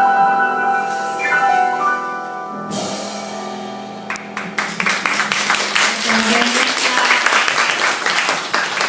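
Piano's closing notes ring out and fade, then a small audience starts clapping about four seconds in and keeps applauding.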